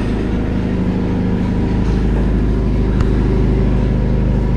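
A car engine idling steadily close by, with a brief click about three seconds in.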